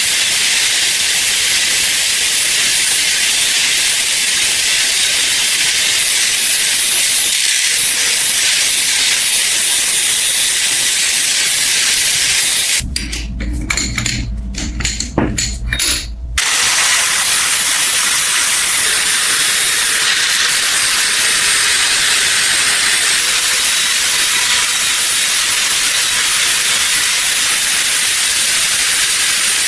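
A loud, steady hiss like a jet of pressurised air or spray. About thirteen seconds in it cuts out for some three seconds, and a low rumble with a few knocks takes its place before the hiss resumes.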